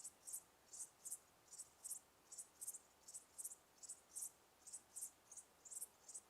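Cricket chirping steadily: short high-pitched chirps, about three a second.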